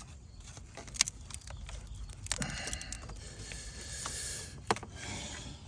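Hand work on an engine-bay hose and its clips: a few sharp clicks and knocks, with scraping and handling noise between them.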